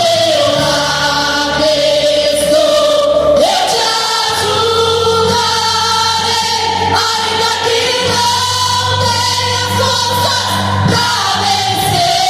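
Gospel music: voices singing together in long held notes over instrumental backing.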